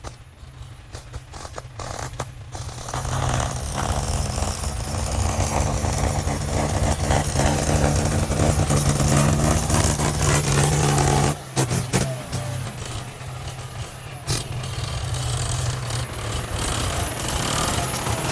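Heavy machinery engine running, growing louder a few seconds in. About eleven seconds in it cuts abruptly to a quieter engine sound.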